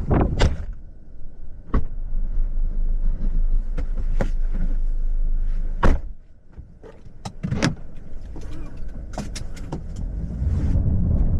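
Low rumble of a car with scattered sharp taps and knocks. The rumble drops away briefly about halfway through, then builds again toward the end.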